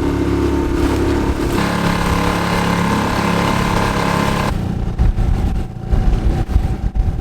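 Small boat's outboard motor running under way, changing pitch about a second and a half in and easing off about four and a half seconds in. After that, wind buffets the microphone in uneven gusts.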